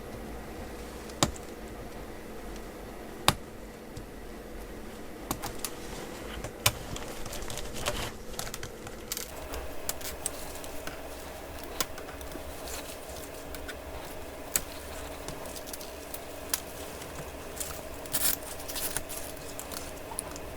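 Scattered sharp clicks and small taps of laptop parts being handled during disassembly, over a steady background hum.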